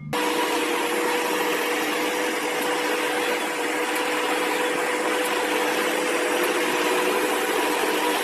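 Steady engine and road noise of a moving vehicle: an even hiss with a constant hum, cutting in abruptly at the start.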